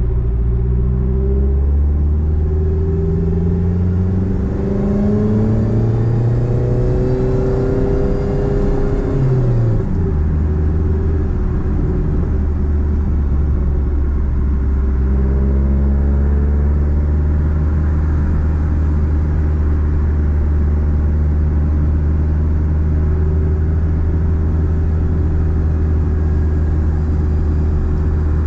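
Nissan Platina's engine through a straight-pipe exhaust, rising in pitch for about nine seconds under acceleration. The pitch drops sharply about ten seconds in, then settles to a steady cruising drone.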